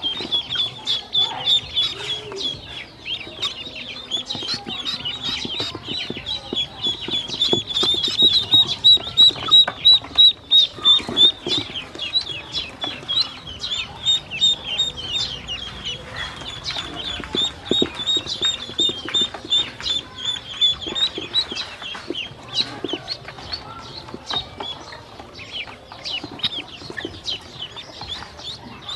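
A flock of ducklings peeping continuously, many short high chirps overlapping, loudest about eight to eleven seconds in.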